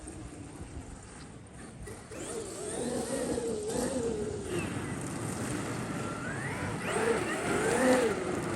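Traxxas XRT RC truck's brushless electric drive whining, its pitch rising and falling as the throttle is worked, with tyre and ground noise underneath. It is quieter for the first two seconds and loudest about eight seconds in.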